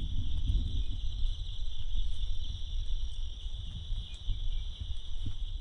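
Insects chirring in a steady, unbroken high drone, with an uneven low rumble underneath.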